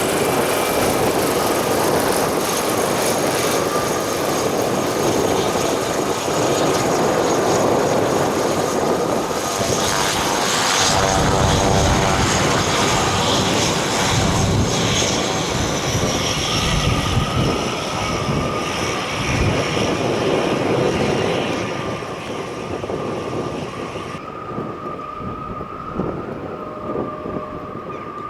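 Cessna 208 Caravan's Pratt & Whitney PT6A turboprop running with a steady turbine whine and propeller noise, while wind rumbles on the microphone. The sound grows quieter and duller in the last few seconds.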